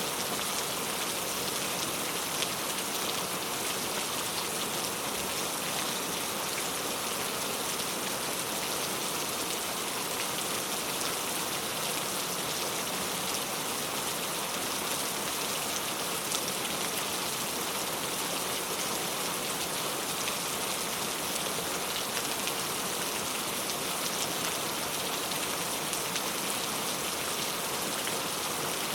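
Heavy rain falling steadily, a dense even hiss with many individual drops pattering on surfaces.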